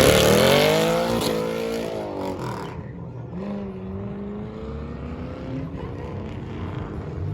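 A car's engine at high revs, falling in pitch and fading over the first three seconds as it drives away. A quieter engine keeps running at a steady low pitch after that.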